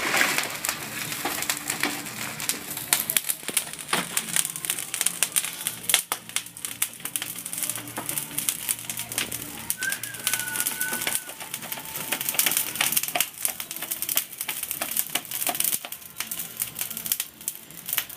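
Campfire crackling and popping, with many irregular sharp snaps throughout. About ten seconds in, a brief high whistle-like tone sounds over it.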